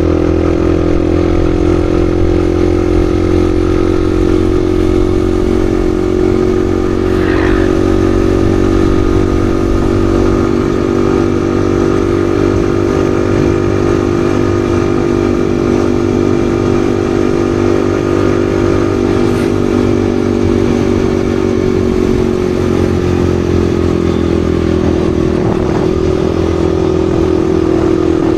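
Yamaha XSR155's single-cylinder engine running at a steady cruising pace under way, over a low wind and road rumble; its note eases slightly lower near the end.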